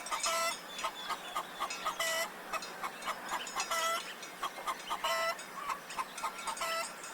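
Chickens clucking: a run of short, rapid pitched calls, several a second.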